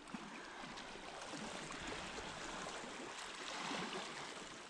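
Sea kayak being paddled on flat calm water: small splashes and trickles of water from the paddle blades and the hull, swelling a little midway.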